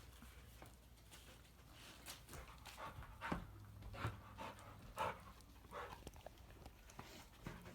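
Faint breathing from an American Pit Bull Terrier, short irregular huffs every half second to second over a low steady hum.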